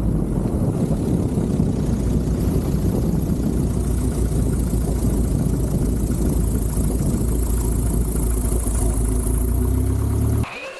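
1954 Cessna 170B's engine and propeller running with a steady drone, cut off abruptly near the end.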